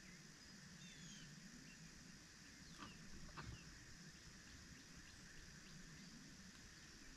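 Faint outdoor quiet with a few short, high bird chirps about a second in and two soft clicks near the middle.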